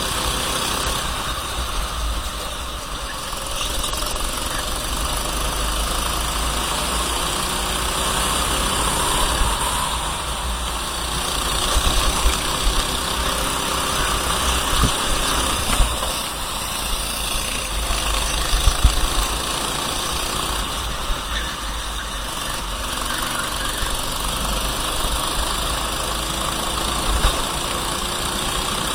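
Kart engine heard on board, running continuously with its pitch rising and falling as the throttle opens and closes, over a steady hiss and low rumble.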